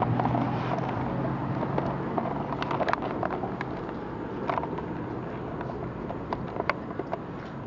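A vehicle engine running steadily with a low hum that eases off slightly, under scattered light clicks and taps.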